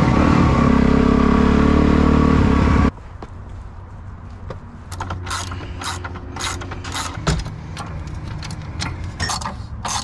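Dirt bike engine running loud and steady, cutting off suddenly about three seconds in. After that comes a quieter low hum with irregular clicks and rattles.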